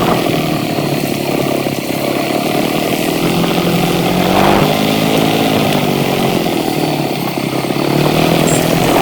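Motorcycle engine running steadily on the move, its note rising and falling about halfway through.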